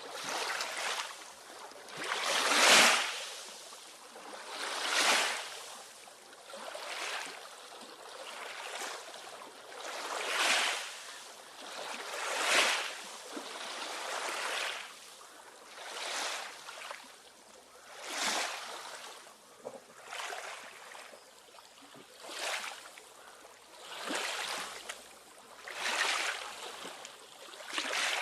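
Water splashing and swishing in regular swells, about one every two seconds.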